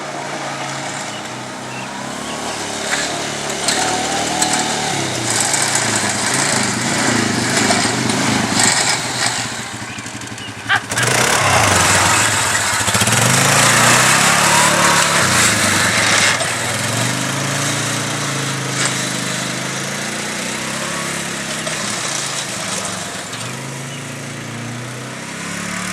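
Four-wheeler towing a 1960s pull-behind lawn mower through tall grass, both engines running, with the pitch rising and falling as the throttle and load change. A sharp knock comes about eleven seconds in, followed by a few seconds of louder running.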